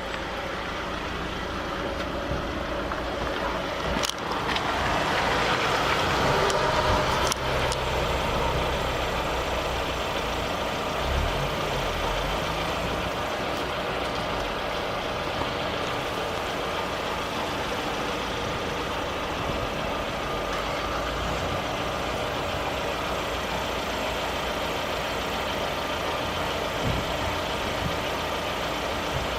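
Lada Vesta AMT engine idling in neutral, in its normal state without the clutch whistle; the whistle is a clutch fault, since cured by replacing the clutch. About four seconds in there are a couple of clicks and a brief swell in the engine sound lasting a few seconds, then a steady idle.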